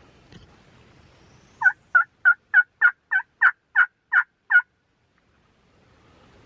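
A run of ten loud turkey yelps, evenly spaced at about three a second, each note breaking from high to low.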